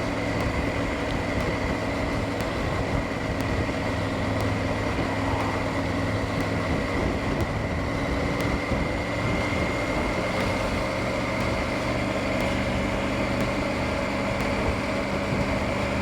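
Triumph Tiger 900 GT Pro's three-cylinder engine running at a steady cruising speed, with wind and road noise.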